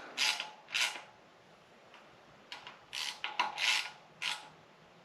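Ratchet wrench being worked in short strokes, tightening 13 mm bolts on the windage tray and oil pickup tube of a 6.0 LS engine: a couple of rasping strokes at the start, then a quicker run of them a few seconds in.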